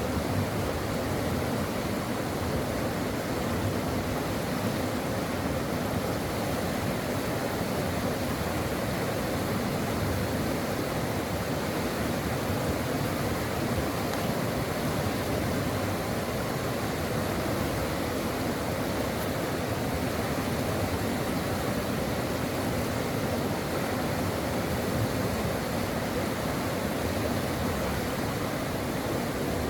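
Brook water flowing steadily, an even rushing noise with no breaks.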